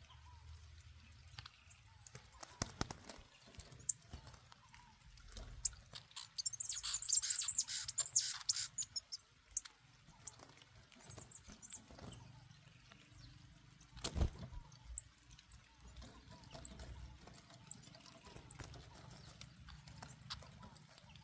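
A small bird chirping in short, high peeps scattered throughout. There is a burst of high rustling or fluttering about seven seconds in, and a single sharp knock around fourteen seconds.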